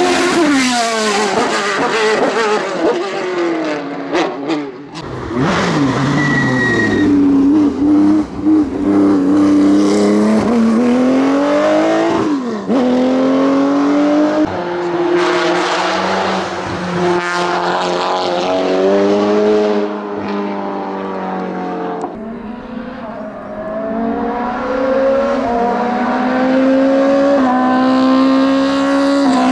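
Hillclimb race car engines at full throttle, revs climbing through the gears and dropping sharply on shifts and as cars pass.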